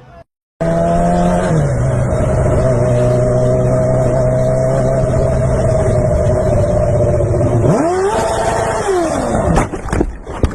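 A car engine running loud at steady high revs, its pitch stepping down once and holding. It then swells up and falls back over about a second and a half, and a few sharp knocks come near the end.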